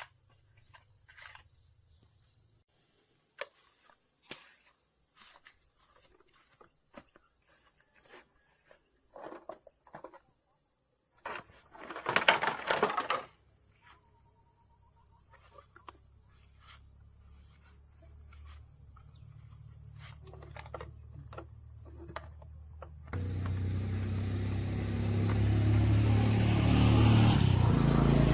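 Scattered clicks and taps of hand work over a faint steady high tone, with a brief loud rattle about twelve seconds in. Near the end an engine starts suddenly and runs, growing louder.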